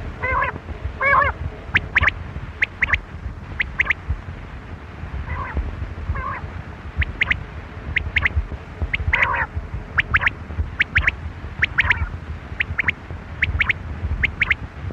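Quail calling: repeated short, sharp high notes in quick pairs and triplets, with a few lower, wavering calls among them, over a steady low rumble.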